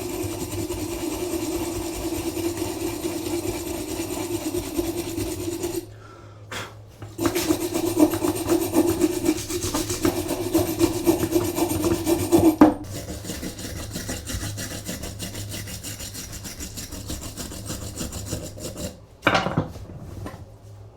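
Wire brush scrubbing and scraping the metal parts of an antique coffee grinder, cleaning off grime and rust, in long rasping stretches with a short break about six seconds in. The scrubbing is softer for the last third.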